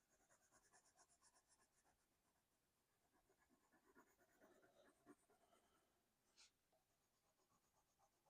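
Faint scratching of a colored pencil on sketchbook paper in quick, short repeated strokes, with a brief pause about two seconds in.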